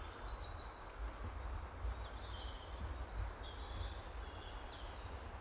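Small birds chirping and twittering over a steady outdoor hiss and a low rumble.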